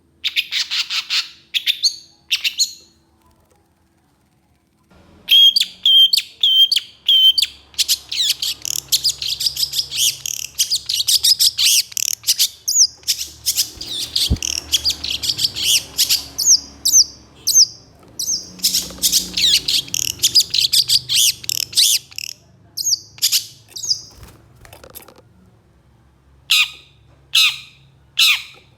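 Long-tailed shrike (cendet) singing fast runs of harsh, scratchy notes. It stops for about two seconds near the start, then sings a dense, rapid stretch, and ends with single harsh calls spaced about half a second apart.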